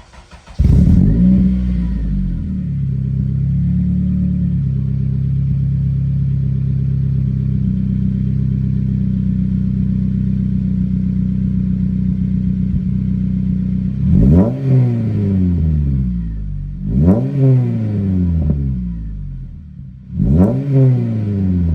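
Honda Civic Type R FN2's K20 four-cylinder engine, breathing through a Piper 3-inch cat-back exhaust, starting up with a brief flare of revs, settling into a steady idle, then blipped three times near the end, each rev rising sharply and falling back to idle.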